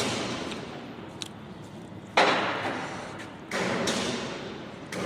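Two heavy thuds about a second and a half apart, each sudden and trailing off over about a second, as of heavy metal equipment being knocked or set down while it is handled.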